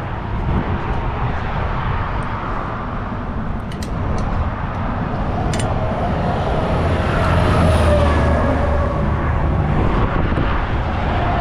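Semi-truck running on the road: a steady low engine drone with road noise, and a faint whine that slowly drifts down in pitch. A couple of light clicks come about four and six seconds in.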